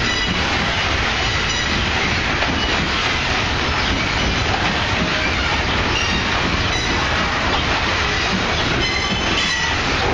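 Loaded iron-ore hopper wagons rolling steadily past, their steel wheels running loud on the rails. Faint high-pitched wheel squeals come briefly at the start and again about nine seconds in.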